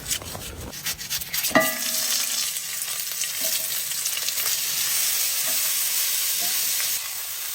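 Onion being put into a hot pan and frying: a few quick scraping strokes, a single ringing metal clank about a second and a half in, then steady sizzling.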